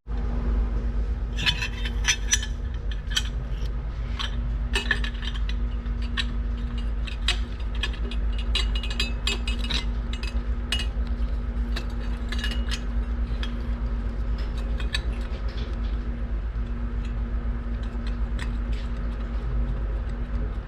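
Irregular metallic clinks and taps of tools and exhaust hardware being handled during motorcycle exhaust installation, over a steady low hum.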